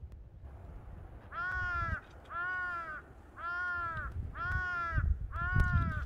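A crow cawing five times in a steady row, about one call a second, each call rising and falling in pitch. Wind rumbles on the microphone underneath, strongest near the end.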